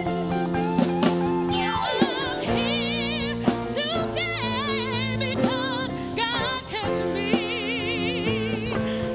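A gospel song sung solo, with wide vibrato, over sustained chords from the accompanying band and a few sharp drum hits.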